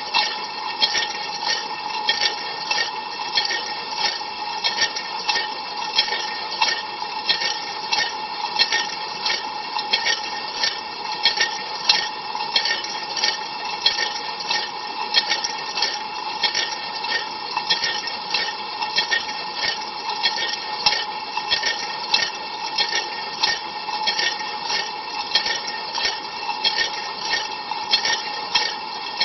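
Ariston LV 46 dishwasher rinsing with cold water, heard from inside the tub: water jets from the rotating spray arm strike in a regular pulse about twice a second over a steady hum.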